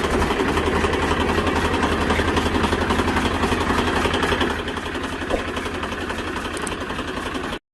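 Tractor engine running steadily with an even low pulse, dropping slightly in level about four and a half seconds in; the sound cuts out abruptly just before the end.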